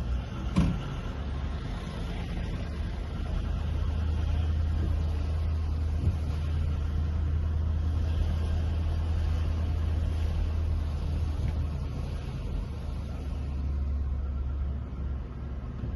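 Motor vehicle engine running steadily with a low, even hum, with a few light clicks near the start.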